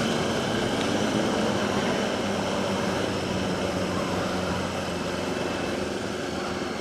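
Motorcycle engine idling steadily, slowly getting a little quieter.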